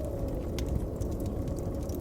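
Blizzard wind blowing in a low steady rumble with a faint whistle, over the sharp scattered crackles and pops of a wood fire.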